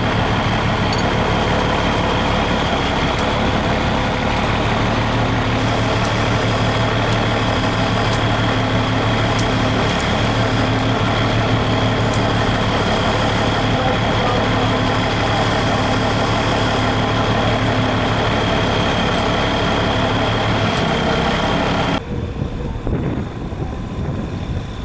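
A heavy vehicle's engine running steadily at raised revs with a constant high whine, then dropping abruptly to a much lower level near the end.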